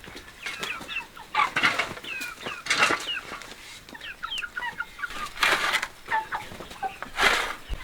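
Chickens clucking in short, quick calls throughout. Four brief rustling noises break in among them.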